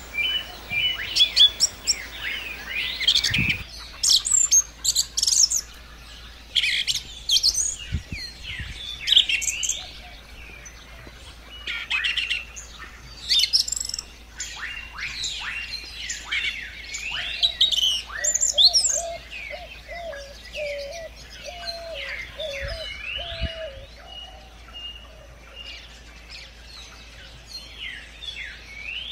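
Several wild birds singing and chirping: quick, sweeping high chirps and whistles overlap throughout. From about the middle, a lower call of short repeated notes runs for several seconds.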